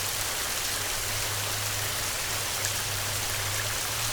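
Heavy rain falling in a steady, dense hiss, with a low steady drone underneath.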